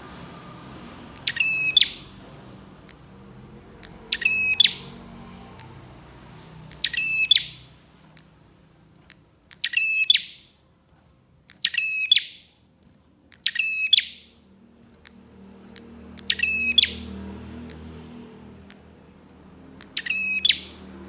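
Prenjak (prinia) calling: eight short, loud, rapid stuttering calls repeated about every two to three seconds.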